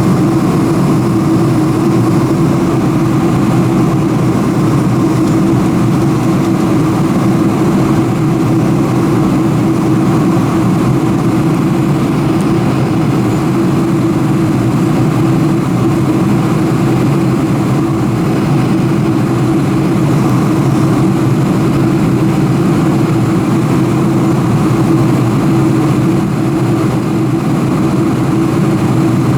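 Boeing 747-400 cabin noise: the steady drone of the jet engines and airflow heard from inside the passenger cabin, with a constant low hum and no knocks or changes.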